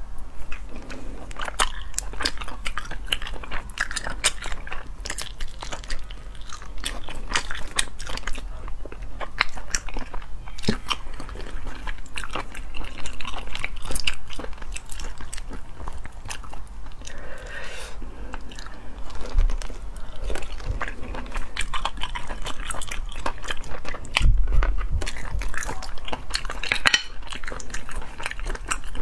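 Close-miked chewing and biting of spicy braised sea snails, with many short wet mouth clicks and the clack of snail shells being handled.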